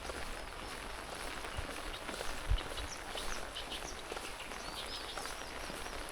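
Light rain pattering, with many small drip ticks, while a bird gives a quick series of repeated chirps near the end. A single dull thump about two and a half seconds in.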